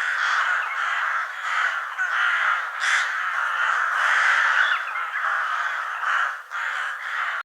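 Crows cawing in a steady stream of overlapping calls.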